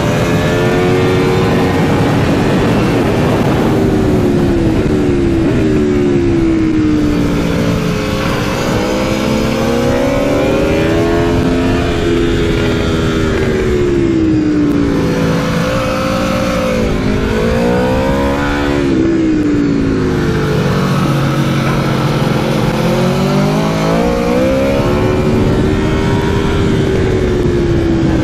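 Aprilia Tuono V4 motorcycle's V4 engine at track speed, its pitch rising under hard acceleration and falling on the overrun and downshifts into corners, over and over. The deepest, slowest drop comes about two-thirds of the way through.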